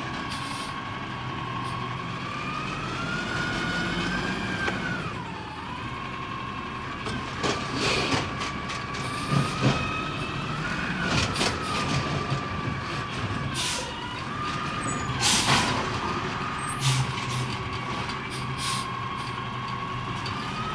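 Peterbilt 320 Amrep garbage truck working: a whine whose pitch wavers slowly up and down rides over the running diesel engine. Repeated clanks and bangs of waste being loaded and packed come through it, the loudest about halfway through.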